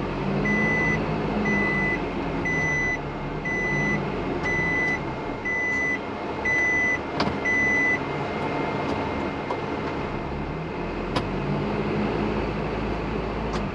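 Isuzu NPS 4x4 truck's diesel engine labouring in soft sand, its pitch rising and falling, with the reversing beeper sounding about twice a second until about eight seconds in: the truck is bogged and won't go forward, so it is backing off the slope.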